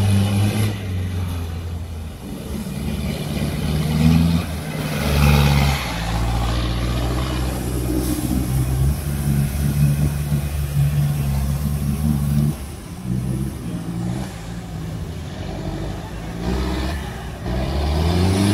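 Off-road 4x4's engine running under load at changing revs. It holds steady for several seconds at a time, steps up and down in pitch, and revs rise near the end.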